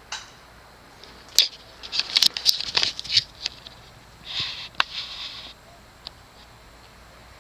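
A run of irregular rustling, scratching and sharp clicks over about four seconds, over a faint steady background.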